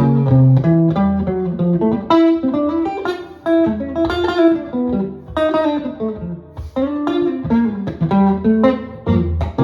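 Jazz guitar playing a standard, with plucked notes and chords over moving low notes.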